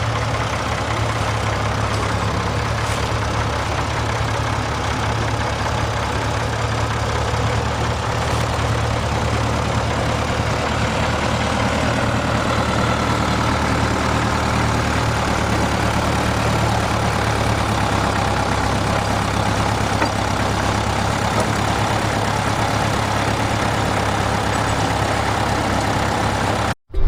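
Engine powering an old sawmill running steadily at a constant speed, cutting off suddenly near the end.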